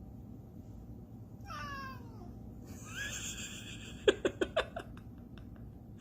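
A cat meowing: one falling meow about a second and a half in, then a noisier call, and a quick run of short sharp sounds near the end.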